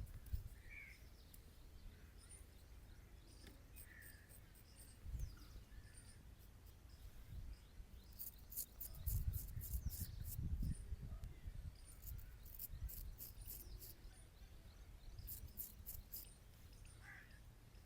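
Straight razor scraping through beard stubble in short strokes, giving quick bursts of fine crackling ticks in three spells. Faint bird chirps sound now and then.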